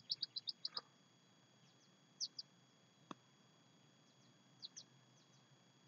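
Small bird chirping: a quick run of about seven high chirps at the start, then pairs of chirps about two seconds and again about four and a half seconds in. A single sharp click about three seconds in.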